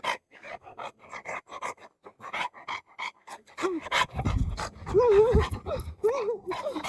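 Dog panting hard and fast, out of breath from running. A low rumble comes in about four seconds in, and a few short pitched vocal sounds come near the end.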